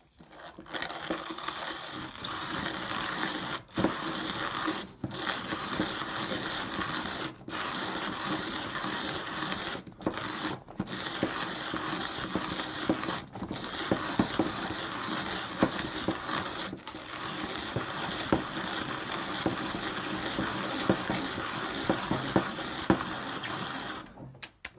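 A 1950s Kissing & Möllmann 9485 hand-crank conical burr coffee grinder grinding coffee beans at its finest setting, a busy crunching, grating rattle as the handle turns. The handle stops briefly several times. It takes about 36 turns to grind 7 grams.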